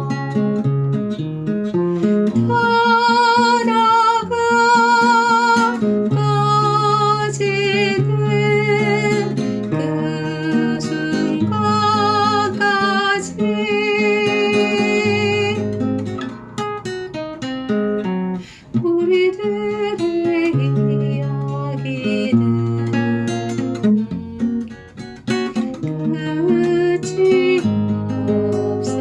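Acoustic guitar playing chords over a moving bass line, with a melody held in long notes with strong vibrato above it.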